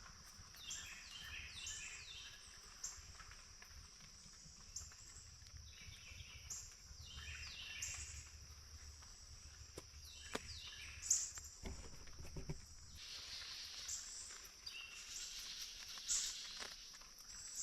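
Outdoor ambience: a steady high-pitched insect drone, with repeated short bird calls that step down in pitch and a few faint clicks. The drone thins out about two-thirds of the way through.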